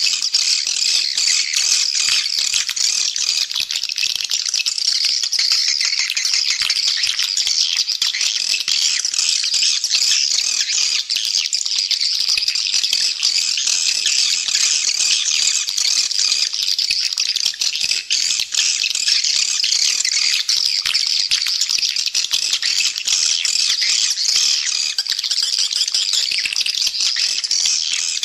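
Dense, unbroken chattering and twittering of many edible-nest swiftlets: a swiftlet call recording of the kind played to lure the birds into a swiftlet nesting house.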